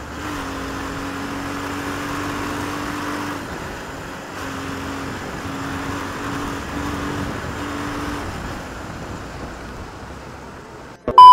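Bajaj Pulsar 220F motorcycle's single-cylinder engine running as it is ridden along the road, with steady wind and road noise. Its note holds steady at first and comes and goes from about four seconds in. A loud electronic beep cuts in at the very end.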